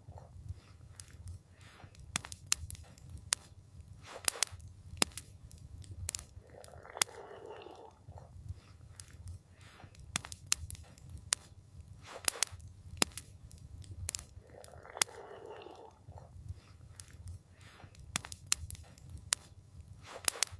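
Campfire crackling: wood popping and snapping in sharp, irregular clicks over a low, steady rumble of the flames, with a soft rushing sound twice.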